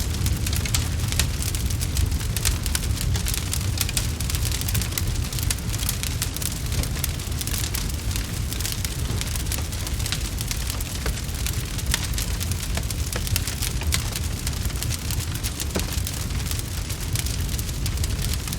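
Wood fire crackling, a constant patter of small pops and snaps over a steady low rumble.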